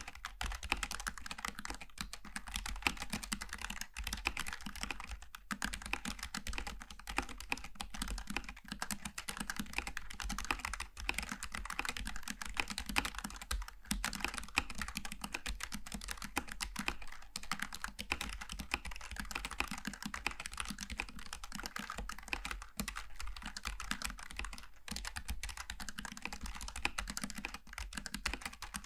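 Continuous fast typing on a Logitech G915 TKL low-profile mechanical keyboard with GL Tactile switches: a dense, unbroken stream of key clicks and clacks.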